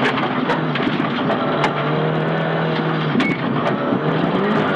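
Nissan Silvia S15 rally car's four-cylinder engine heard from inside the cabin at speed: the note drops, holds steady for a while, dips again, then rises near the end. Scattered sharp clicks and knocks run through it.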